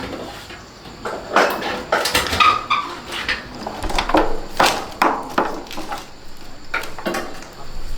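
Irregular metallic clinks and knocks from tools and metal parts being handled, some strikes ringing briefly.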